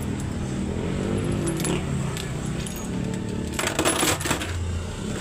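Isuzu 10PC1 V10 diesel engine running steadily, with a short cluster of metallic clinks and rattles a little over halfway through.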